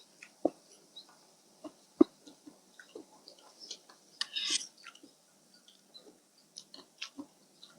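Close-up eating sounds: a person chewing khanom jeen rice noodles with canned-fish curry, with scattered wet mouth clicks. There are two sharper taps about half a second and two seconds in, and a short hissy burst around four seconds.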